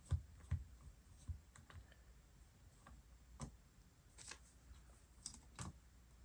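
Faint, irregular small clicks and taps of a precision Torx screwdriver working a small screw out of a MacBook Pro laptop's case.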